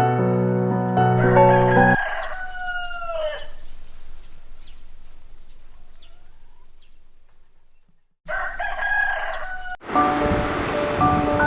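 A rooster crowing: one long call that falls in pitch at its end and fades away. A second crow starts about eight seconds in and breaks off shortly after.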